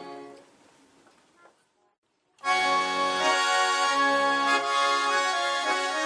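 An accordion's soft notes die away, and after a brief near-silent pause about two and a half seconds in, the accordion strikes up loudly, playing a tune with full sustained chords over a pulsing bass.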